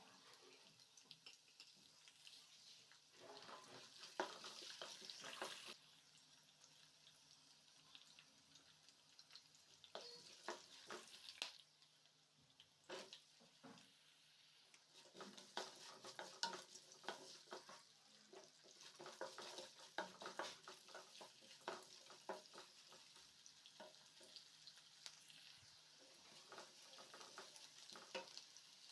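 Peanuts, chana dal, chillies and onion frying faintly in oil in a nonstick kadai, with a steady light sizzle that grows louder a few seconds in. A wooden spatula stirs and scrapes the pan in runs of quick taps.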